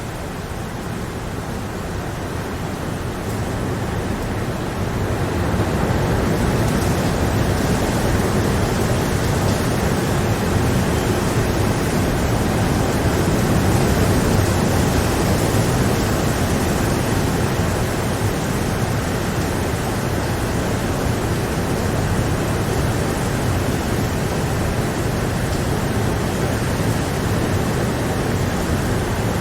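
Steady rain: a dense, even hiss that swells about five seconds in and then holds.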